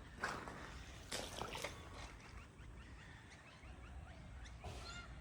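A few soft brushing or stepping sounds in the first couple of seconds, with faint short bird chirps behind them.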